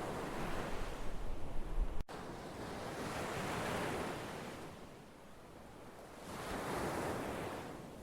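Ocean surf: waves breaking and washing in, the noise swelling and fading about every three seconds, with a deep rumble in the first two seconds. The sound drops out for a split second about two seconds in.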